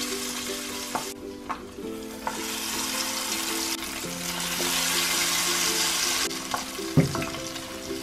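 Battered chicken feet sizzling in hot frying oil in a pot as more pieces are dropped in; the sizzle dips briefly about a second in, then swells louder through the middle. A sharp thump about seven seconds in is the loudest moment.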